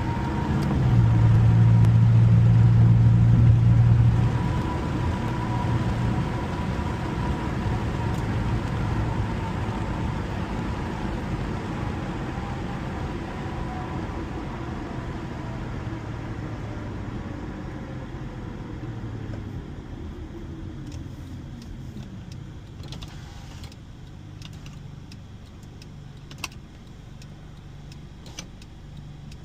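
Car engine and road noise heard from inside the cabin, loudest briefly early on, then falling steadily in level and pitch as the car slows down. A few light clicks come near the end.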